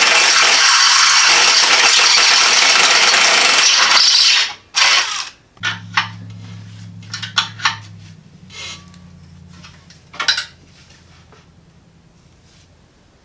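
A loud, harsh power-tool noise on metal runs for about four seconds and then cuts off. It is followed by several sharp metal clanks and knocks over a faint low hum that dies away.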